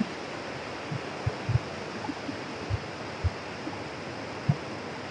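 Steady rush of river water, with a few soft low thumps scattered through it.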